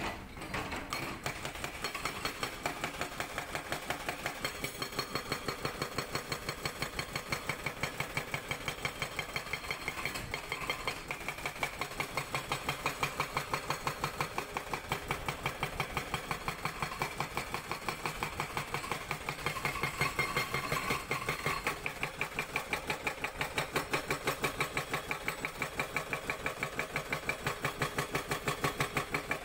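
Sangdo SD220 hydraulic breaker on a Cat 320D excavator hammering rock in a fast, steady rhythm of many blows a second, over the excavator's running diesel engine.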